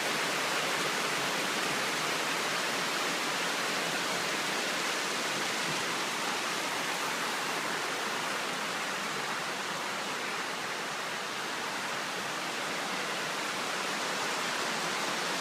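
Rain falling steadily in the rainforest, an even, unbroken hiss with no single drops standing out.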